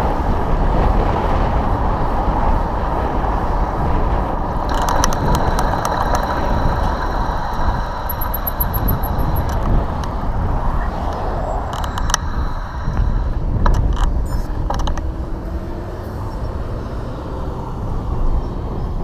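Wind rushing over the microphone and road traffic noise on a windy day, with scattered clicks and a faint high tone in the middle stretch.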